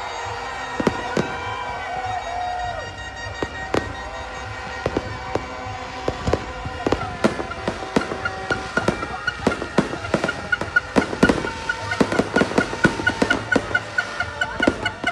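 Fireworks going off: a stream of sharp bangs and pops, growing denser and more rapid about halfway through, over background music.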